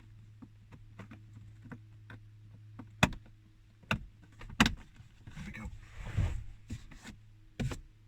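Clicks and knocks of plastic dashboard trim being handled and fitted, with two sharp knocks about three and four and a half seconds in and a rustle around six seconds in, over a steady low hum.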